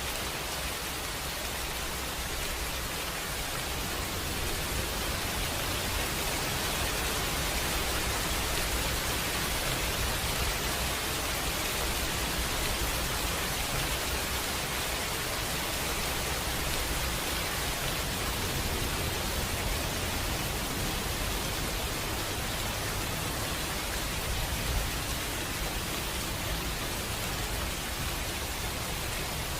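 Steady rainfall, an even hiss of drops with no letup.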